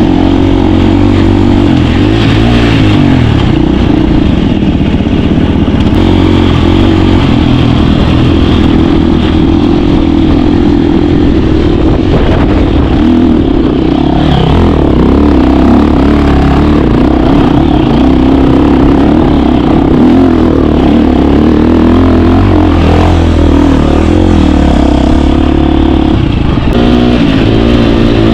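KTM 350 four-stroke single-cylinder dirt bike engine running while ridden, its revs rising and falling.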